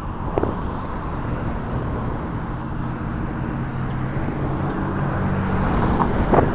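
Wind noise on the microphone mixed with the steady low hum of a motor vehicle's engine. The wind grows louder and rougher near the end.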